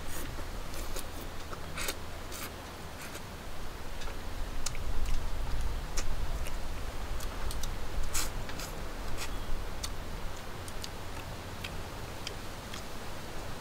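Close-up eating sounds: irregular clicks and snaps of chewing and picking at duck meat and bones, over a steady low rumble.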